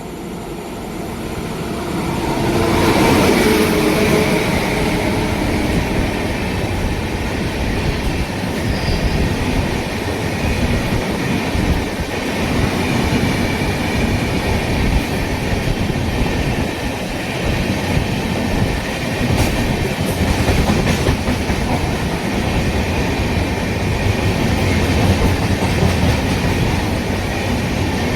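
An electric-hauled Indian Railways train passing at speed: the sound builds to its loudest about three seconds in as the front goes by, then the cars run past in a steady rumble of steel wheels on rail.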